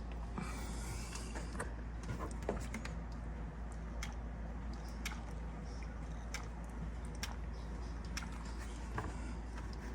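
Scattered light clicks and knocks of handling over a steady low hum.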